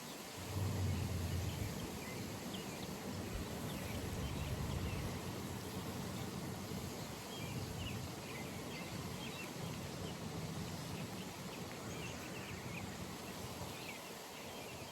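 Pond ambience: small birds chirping over the low hum of a distant engine, loudest about a second in and slowly fading.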